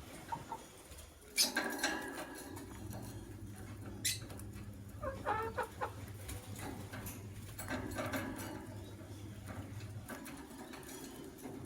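Lovebirds moving about in their cage: scratching and rustling, with a short high squeak and a brief chirp in the middle. A steady low hum lies underneath and stops near the end.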